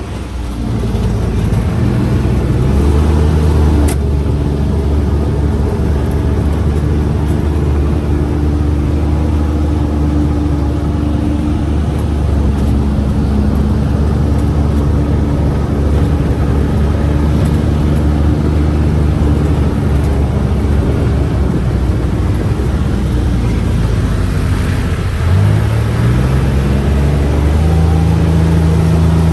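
UTV engine running under way, with a steady hum that climbs in pitch as it accelerates about a second in and again about 25 seconds in, then holds steady at the higher speed.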